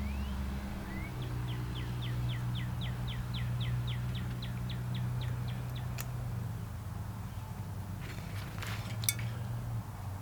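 A bird singing a rapid run of short descending notes, about four a second for some four seconds, over a steady low hum. A few sharp clicks come later on.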